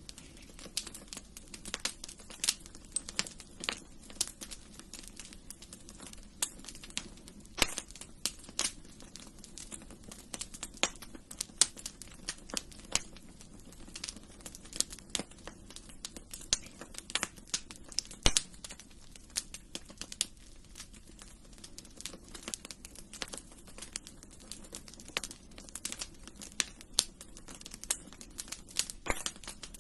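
Wood fire crackling in a fireplace: irregular sharp pops and snaps, several a second, over a low steady background noise.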